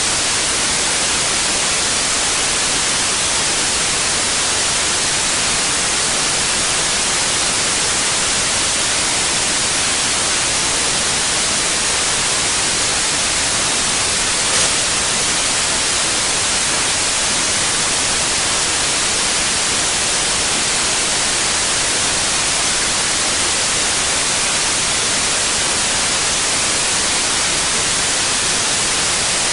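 Steady white noise: an even, unchanging hiss weighted toward the treble, with one faint tick about halfway through.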